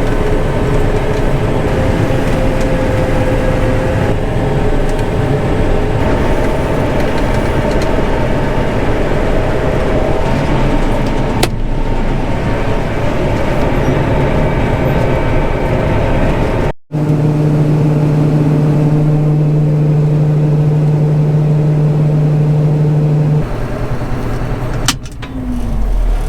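John Deere 9500 combine running steadily while harvesting grain, a continuous machine drone with engine hum. The sound breaks off sharply twice; after the first break a strong steady low hum takes over.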